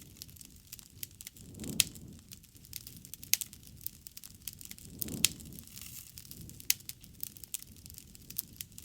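Wood campfire crackling, with frequent sharp pops and snaps. Twice a soft, low rush of flame swells up, each time with a loud pop.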